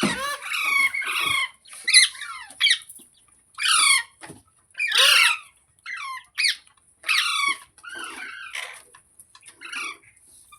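Pet green parrot giving a series of short, shrill squawks, each one sweeping down in pitch, about a dozen in quick succession with brief pauses between them.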